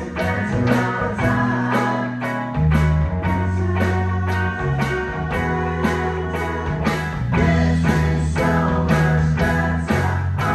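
A live band playing: guitar over a bass line of long held notes, with a steady drum beat of about two hits a second.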